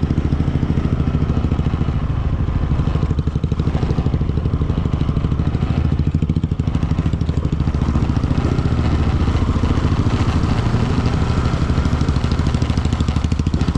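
Motorcycle engine running steadily at an even speed, with a regular rapid pulse and no revving.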